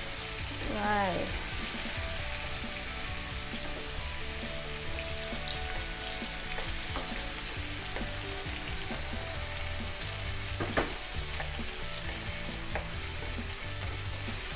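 Potatoes, mushrooms and carrots sizzling steadily in hot oil in a frying pan, stirred with a wooden spatula that knocks lightly against the pan a few times.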